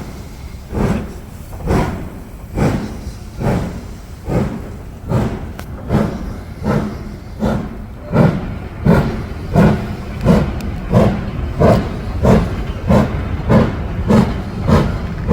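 Steam locomotive working hard, its exhaust chuffs beating in a steady rhythm that quickens and grows louder as it picks up speed.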